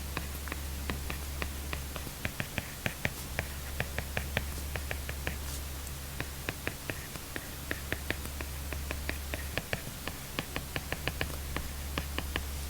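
Apple Pencil tip tapping and ticking on an iPad screen fitted with a paper-texture film while handwriting: irregular short clicks, several a second, with brief pauses, over a steady low hum.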